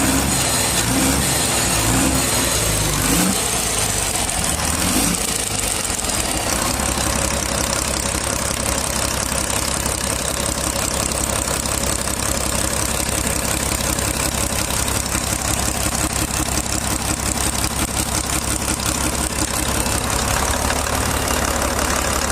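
Ashok Leyland marine diesel engine running steadily with a rapid, even beat; its low tones waver for the first few seconds, then settle.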